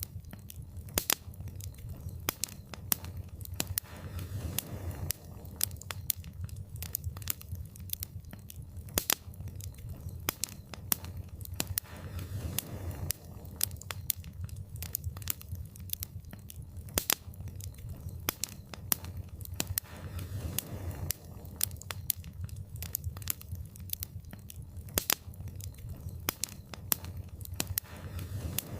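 Wood fire crackling and popping: many sharp, irregular snaps over a steady low rumble of flame.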